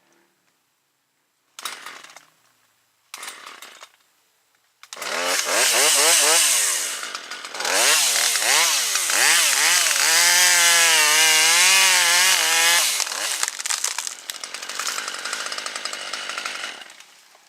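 Two-stroke gas chainsaw: two short sputters, then it catches about five seconds in and is revved up and down, held at high speed, and run on until it dies away near the end. The long high-speed stretch is the saw cutting a limb.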